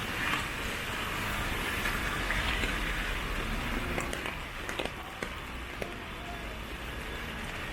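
Steady hiss of rain and traffic on a wet city street, with a few light ticks about four to five seconds in.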